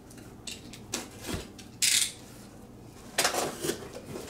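Cardboard box being opened and its contents handled: scattered knocks and light clatter, with a short sharp rustle about two seconds in and a cluster of knocks about three seconds in.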